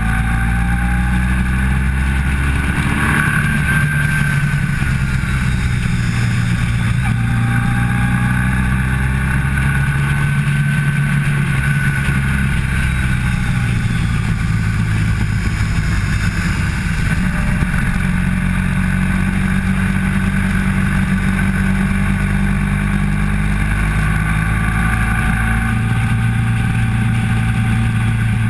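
Motorcycle engine heard from a camera mounted on the bike during a track lap, its pitch climbing and dropping repeatedly as it accelerates, shifts and slows through the corners.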